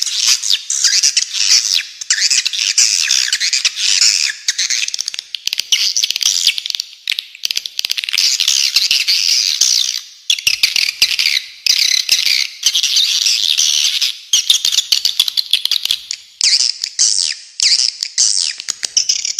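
Recorded spiderhunter calls mixed with swiftlet twittering: a dense, harsh, high-pitched chatter that runs almost without a gap, with short breaks about ten and sixteen seconds in.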